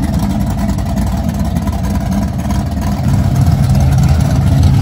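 1980 Chevrolet Camaro Z28's 383-cubic-inch V8 with a big camshaft idling loud and choppy through its exhaust. The engine grows louder and deeper about three seconds in.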